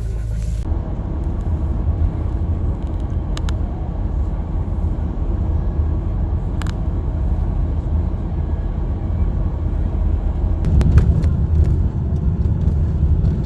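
Steady low engine and road rumble of a car travelling at speed, heard from inside the cabin, swelling somewhat near the end, with a few faint clicks.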